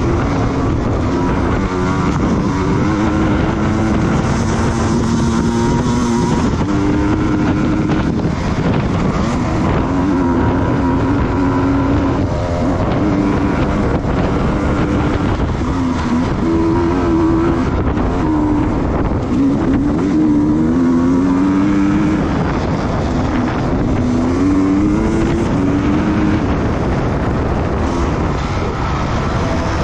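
Racing motorcycle engine under hard use, its pitch climbing and dropping again and again as it revs through the gears.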